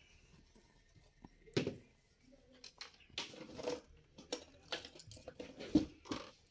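Scattered plastic clicks and knocks of a Dell XPS L502X laptop being handled as its battery is unlatched and taken out, one louder knock about one and a half seconds in and a run of smaller clicks later.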